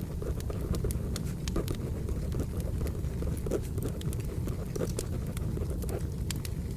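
Firewood burning with a steady low rumble and frequent sharp, irregular crackles and pops.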